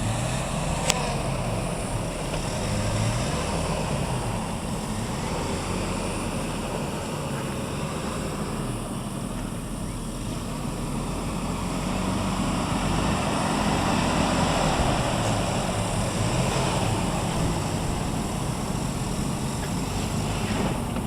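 Jeep Grand Cherokee engine working through mud, its pitch rising and falling with the throttle and getting louder around the middle. A sharp click sounds about a second in.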